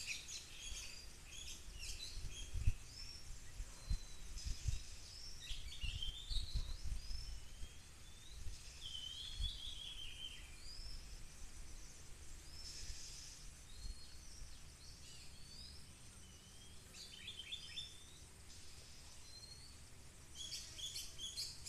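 Oriental magpie-robin song: scattered whistled phrases and rasping chirps, with low thuds underneath in the first half.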